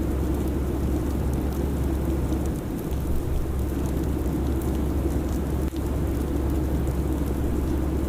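Steady airliner cabin noise: a deep, even rumble of engines and airflow in cruise, with a faint fine crackle on top.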